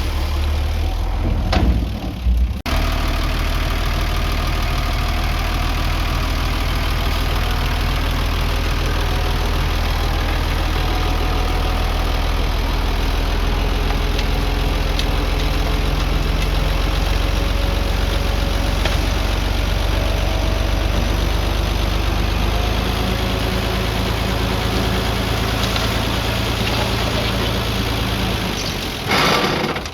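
Diesel engine of heavy earthmoving equipment running steadily at a low, even pitch. The sound changes abruptly about two and a half seconds in, and a short burst of noise comes near the end.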